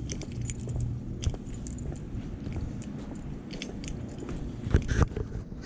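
Jangling and clicking handling noises over a low hum, with two heavy thumps about five seconds in.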